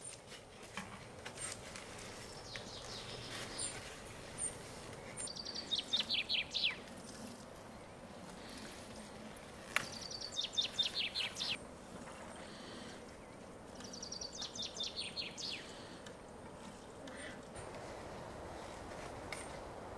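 A songbird sings the same short phrase three times, about four seconds apart, each a quick run of notes falling in pitch. A single sharp click comes just before the second phrase, over steady outdoor background noise.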